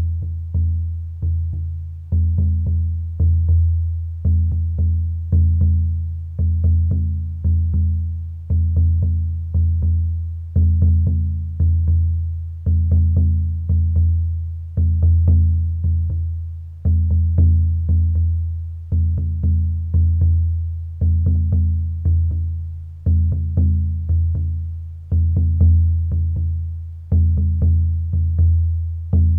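A deep drum beaten in a steady, slow rhythm, roughly one low, booming strike a second, each ringing out before the next. It starts suddenly out of near silence.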